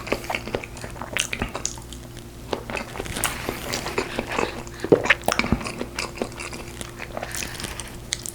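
Close-up mukbang eating sounds: a person biting and chewing food, a quick, irregular run of small wet clicks.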